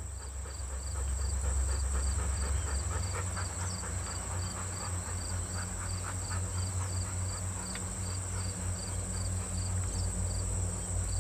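Low, steady rumble of an approaching train that is not yet in sight, with an insect chirping about twice a second over a steady high insect drone.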